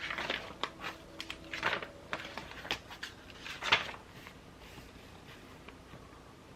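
Paper and stationery being handled while journaling: a run of short rustles and clicks over the first four seconds, the loudest a little before four seconds in, then quieter handling.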